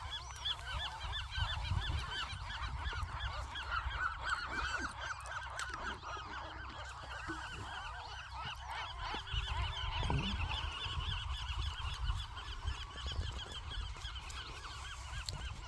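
Nesting gull colony calling: many gulls giving short calls at once, overlapping into a continuous chorus.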